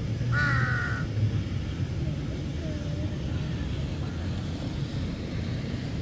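A bird gives one harsh, crow-like caw about half a second in, followed by a few faint short calls over a steady low rumble.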